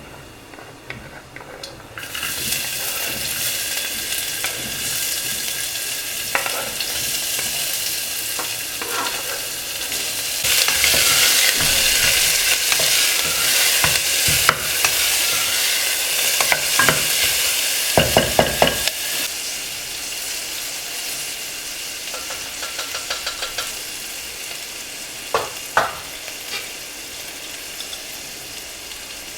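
Food sizzling as it fries in hot oil in a pan, starting a couple of seconds in and growing louder about a third of the way through, then easing off. A spoon stirs it and knocks against the pan: four sharp knocks a little past halfway, a quick run of taps, then two more knocks.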